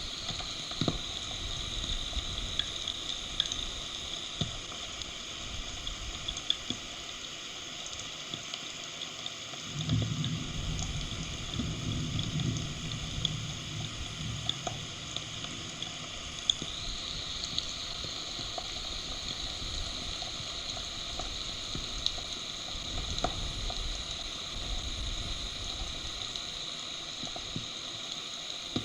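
Heavy summer thunderstorm rain falling steadily with a hiss, with scattered sharp ticks of individual drops. A low rumble starts suddenly about ten seconds in and fades over the next few seconds.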